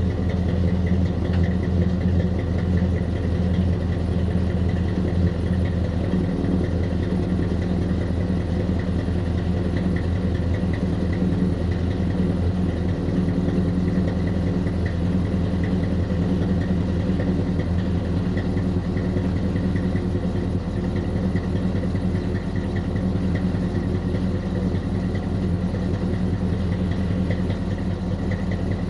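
1981 GMC C10's 350 small-block Chevy V8 idling steadily while warming up from a cold start with no choke, its exhaust running through long-tube headers, an H-pipe and Thrush welded mufflers.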